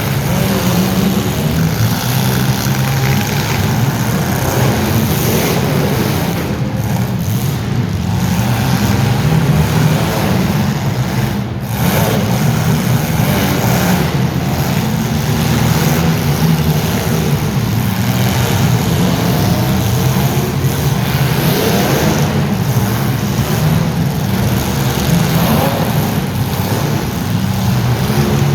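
Several demolition-derby compact-car engines running loudly together, revving up and down over and over.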